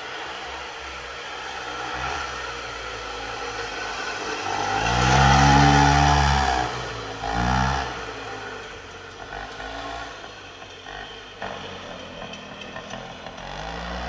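Dirt bike engine running, faint at first, then loud for about two seconds with its pitch rising and falling, followed by a short second rev and a return to a quieter running sound.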